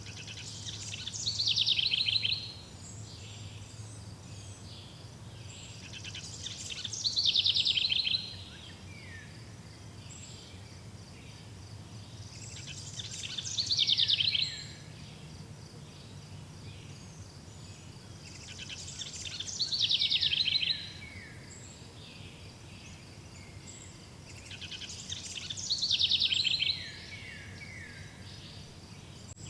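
A bird singing the same song phrase five times, about every six seconds; each phrase builds in loudness for about two seconds, then breaks off with a few quick falling notes. A faint steady low hum and faint high ticking lie underneath.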